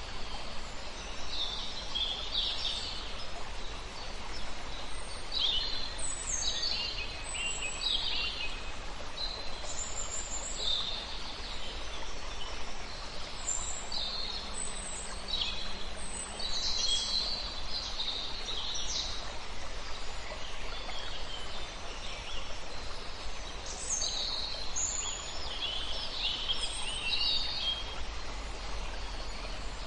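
Several songbirds singing, with short high chirps and trills coming in clusters, over a steady rush of running river water.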